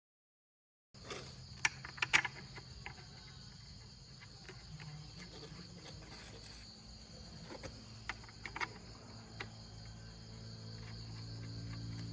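After about a second of silence, insects chirr steadily in the background, with a few sharp clicks and clinks. A low hum grows louder toward the end.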